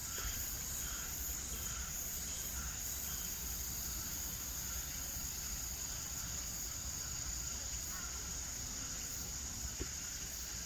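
Steady high-pitched chorus of crickets or similar insects, unbroken throughout, over a faint low rumble.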